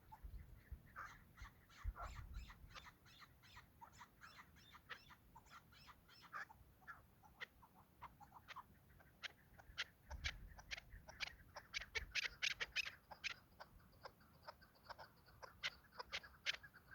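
Chukar partridges calling: a long run of short, clipped clucking notes, sometimes in quick rattling series, with a few low rumbles of handling or wind about two seconds in and again around ten seconds.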